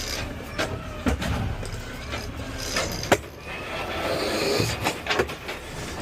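Peterbilt 520 automated side-loader garbage truck running, heard from the cab, with scattered clanks and rattles and one sharp bang about three seconds in.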